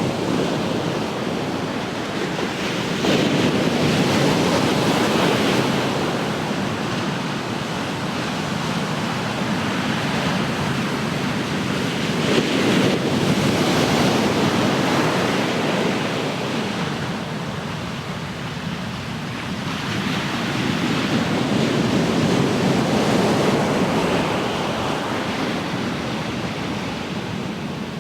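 Ocean surf: waves breaking and washing in, rising and falling in three slow surges about eight to nine seconds apart.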